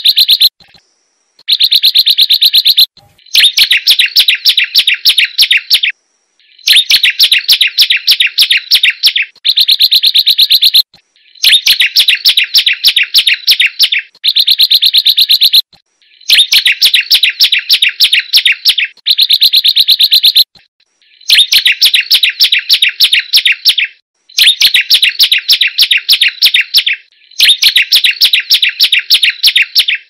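Hill prinia (prenjak gunung) singing loud phrases of rapid, rattling chirps, each lasting two to four seconds, with short pauses between them.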